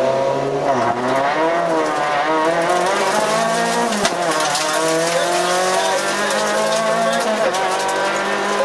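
Renault Clio Williams rally car's 2.0-litre four-cylinder engine heard from inside the cabin, accelerating hard under full throttle. The pitch climbs and drops back several times as it shifts up through the gears, with one sharp knock about four seconds in.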